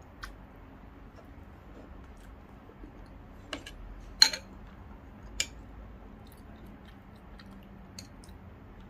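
Eating roasted pigeon: quiet chewing with a few short sharp clicks of mouth, bone and utensil, the loudest just after four seconds in.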